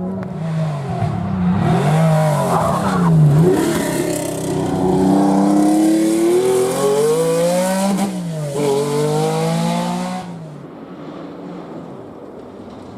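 Historic rally car's engine at full attack, revving up through the gears with its pitch climbing and dropping several times on shifts and lifts, then fading after about ten seconds as the car goes away.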